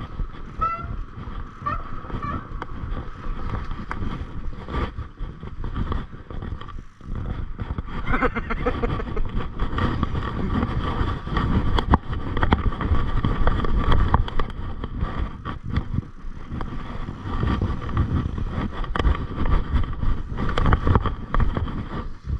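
Mountain bike riding over rough trail: wind buffeting the microphone, with the bike rattling and knocking over bumps.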